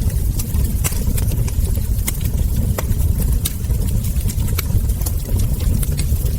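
Wood fire crackling: scattered sharp pops and snaps from burning logs and embers over a steady low rumble.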